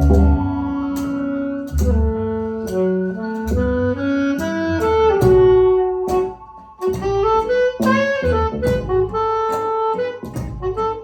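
Live band music: a melodic lead line moving in stepwise held notes over bass, with a steady tapping beat of about two ticks a second.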